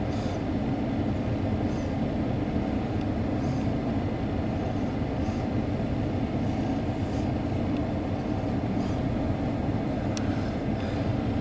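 CSX intermodal freight train rolling past, a steady rumble of wheels on rail with a few faint clicks.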